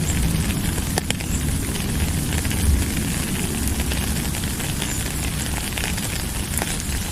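Steady rain falling, a dense hiss of many small drop ticks over a low rumble, with one sharper drop click about a second in.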